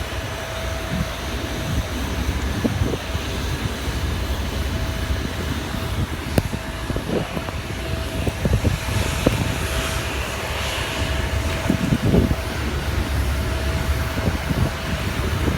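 Aircraft engine noise on an airport apron: a steady hum with a constant mid-pitched tone over an uneven low rumble, with a few brief knocks.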